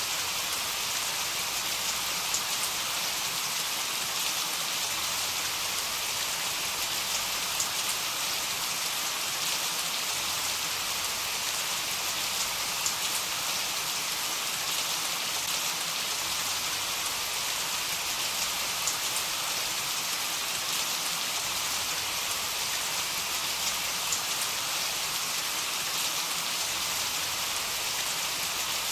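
Heavy rain falling steadily, a dense even hiss with scattered sharp drop ticks; no thunder.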